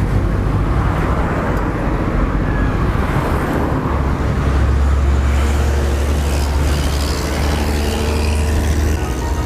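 Road traffic noise and wind rumble heard while cycling along a busy road, with a deeper steady engine-like rumble from a vehicle in the second half.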